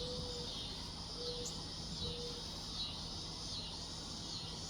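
Steady high-pitched insect chorus, a continuous shrill trilling, with three brief low tones in the first two seconds or so.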